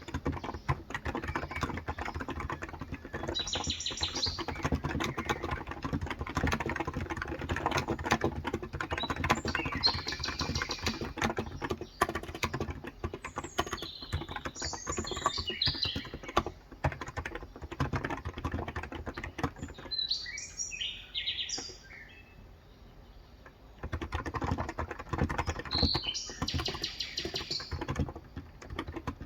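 Fast, steady typing on a Cox Endeavour electro-capacitive (topre-style) 35 g tenkeyless keyboard. The typing stops for about four seconds two-thirds of the way through, then resumes. Birds chirp in the background and are heard plainly during the pause.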